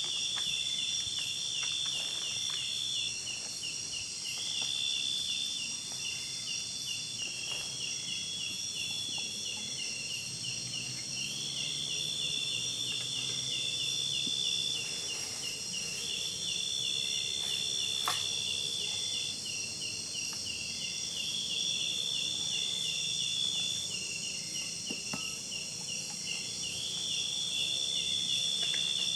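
Chorus of insects in tropical forest: a steady high hiss with a fast pulsing chirp underneath, and a high trill that comes in phrases of two to three seconds separated by short gaps.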